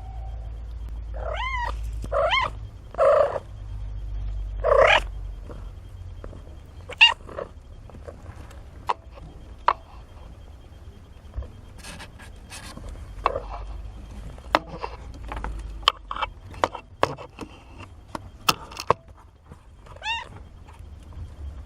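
Young kittens mewing: four short high-pitched mews in quick succession in the first five seconds and one more near the end. In between come many sharp little clicks and taps.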